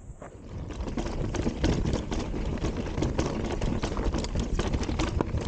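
Electric mountain bike rolling over a rough trail: steady tyre noise on dirt with many small knocks and rattles from rocks and the bike, picking up about half a second in.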